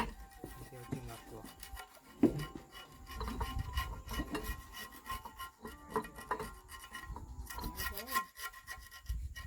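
Hand tools scraping and rubbing on metal parts, with scattered metallic clinks and a sharp knock about two seconds in, during the fitting of an excavator's oil seal.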